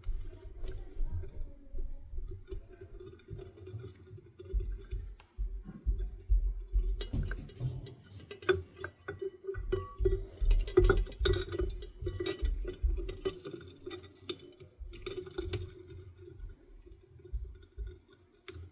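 Hands working on a ceiling fan's metal parts: irregular clinks, clicks and dull knocks, busiest in the middle, over a steady low hum.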